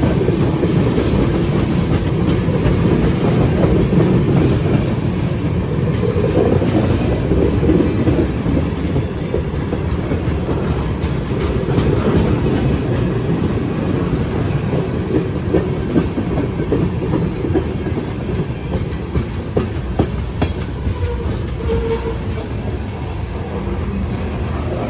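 Freight cars of a CSX manifest train rolling past, with a steady low rumble and wheels clacking over the rail joints, easing off slightly toward the end.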